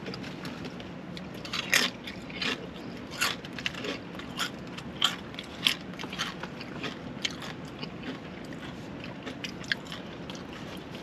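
Close-up chewing and crunching of crisp food: irregular sharp crunches, a few louder ones about 2, 3 and 5 to 6 seconds in, over a steady low hum.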